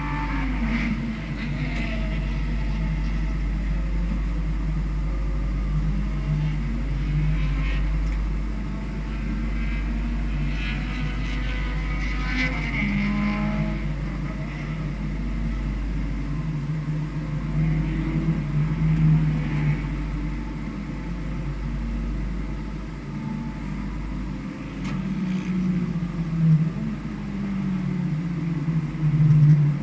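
Engine of a vehicle lapping a race circuit, its pitch repeatedly rising under acceleration and falling as it slows, over a steady low rumble.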